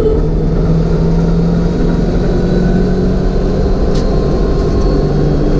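1988 Ford Mustang's engine running steadily under load, heard from inside the cabin over road and wind noise. Its pitch climbs slowly over the first few seconds and dips near the end. A single sharp click comes about four seconds in.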